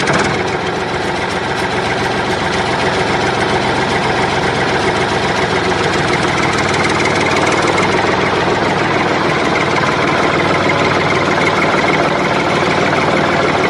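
A mini tractor's small engine idling steadily.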